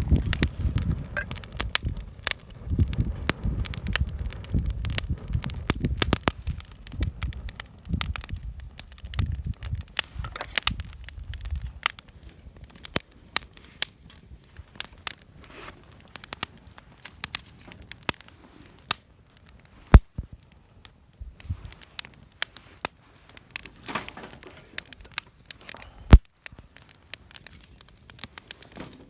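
Wood campfire crackling, with scattered sharp snaps and two loud single pops, one about two-thirds of the way in and one near the end. A low rumble runs under the crackling for the first twelve seconds or so, then stops.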